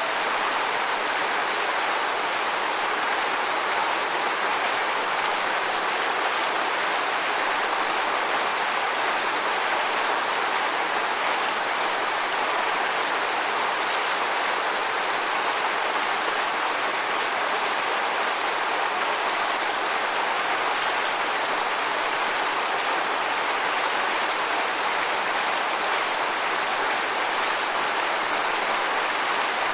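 Waterfall: a steady, unbroken rush of falling water, with most of its sound in the middle and upper range and no change in level.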